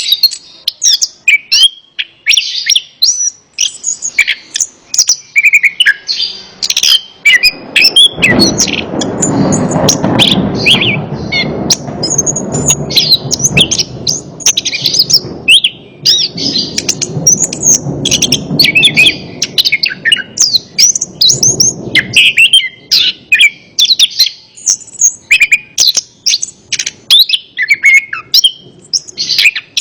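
Chestnut-capped thrush (anis kembang) singing a dense, rapid run of high chirps and whistled phrases. From about a quarter of the way in until about three quarters through, a low rushing noise runs underneath the song.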